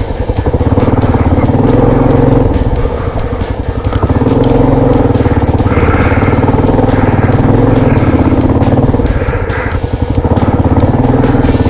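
Motorcycle engine running under way with a fast, even firing pulse and wind rush. The engine note eases off briefly about three and a half seconds in and again near ten seconds.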